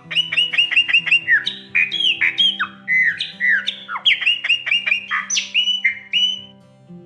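Chopi blackbird (graúna) singing a fast run of loud, clear whistled notes, most slurring downward, that stops near the end. Soft instrumental music plays underneath.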